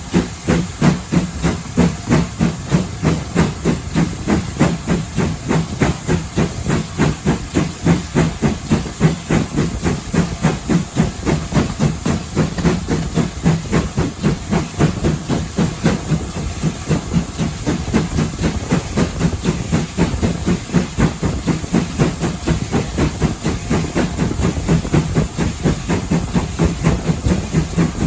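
Steam locomotive working under steam, with a steady rhythm of chuffing exhaust beats at about two to three a second over a continuous hiss of steam.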